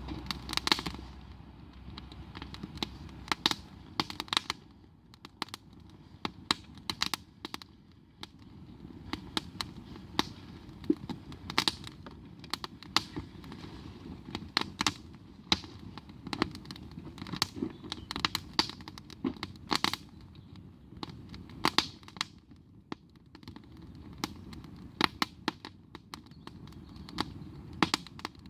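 Wood campfire crackling, with sharp irregular pops over a low, steady background.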